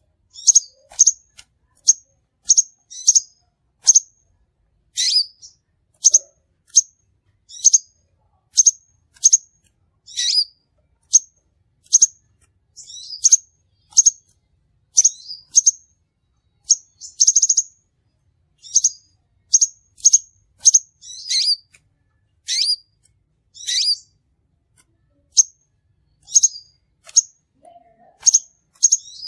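Crimson sunbird calling: a string of sharp, high chirps, one or two a second, some with a quick downward sweep, and a short rapid trill about 17 seconds in.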